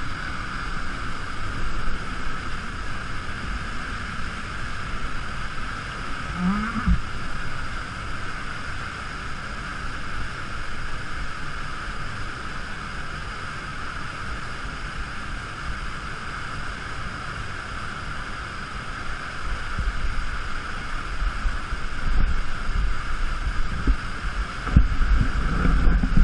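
Waterfall crashing into its plunge pool close up, a steady rush of falling water. Low buffeting on the microphone grows louder in the last several seconds.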